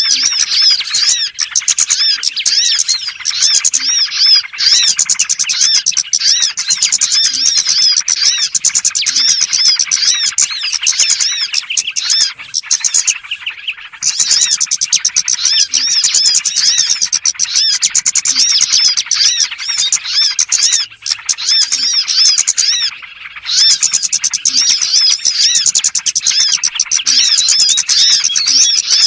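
Dense chatter of many small birds: rapid, high chirps overlapping without a break except for two brief lulls, about halfway and again near the end. It is a small-bird lure call recording (suara pikat burcil) used to draw small birds in.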